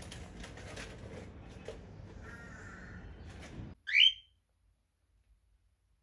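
A pet bird gives one short, loud, rising whistled call about four seconds in. Before it there is a faint steady background with a few soft clicks and a faint chirp, which cuts off abruptly just before the call.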